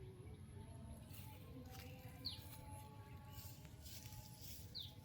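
A bird gives a short, falling chirp twice, about two and a half seconds apart, over faint outdoor background hiss.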